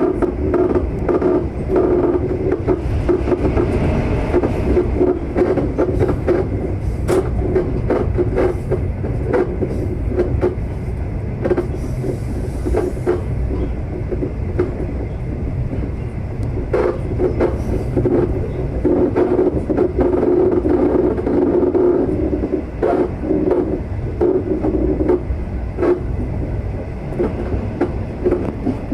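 V/Line passenger train running along the line: a steady rumble of wheels on rails, with frequent irregular clicks and knocks from the track.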